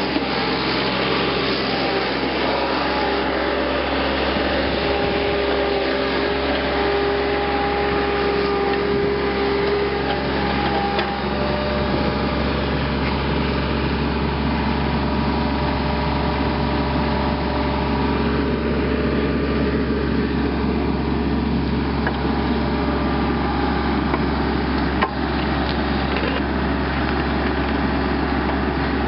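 Power wire brush running continuously against a steel tractor rim to strip rust and old paint, with a steady motor hum under the scouring, and a single click about 25 seconds in.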